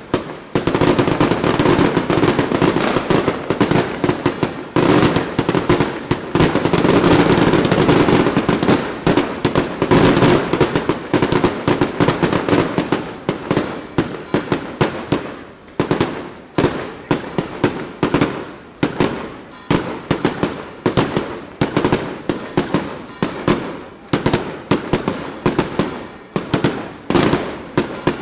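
Daylight fireworks going off: a dense, unbroken rattle of bangs for about the first half, thinning into separate sharp reports at about two or three a second.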